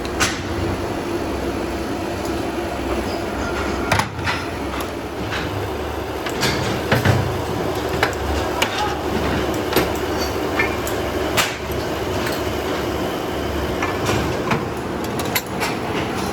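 Tire-factory machinery running steadily, with irregular sharp knocks and clanks throughout.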